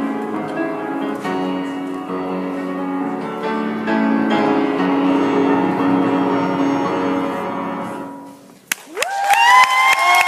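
Piano playing the closing bars of the ballad's accompaniment and dying away about eight seconds in. Then a click, and the audience starts cheering, with high whoops that rise and hold.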